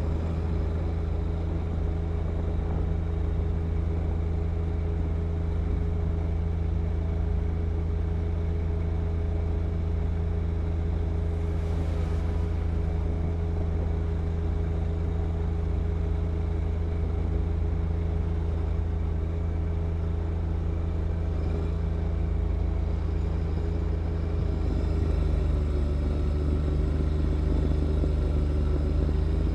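John Deere 1025R subcompact tractor's three-cylinder diesel engine running steadily. Its note shifts slightly about 25 seconds in.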